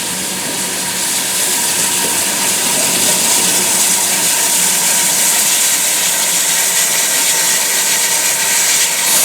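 Steam locomotive hissing steam loudly and steadily, growing slightly louder about a second in.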